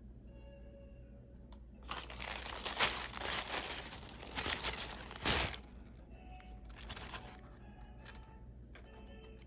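Packaging crinkling and tearing as a parcel is unwrapped. It is loudest for about three and a half seconds starting two seconds in, followed by softer rustles.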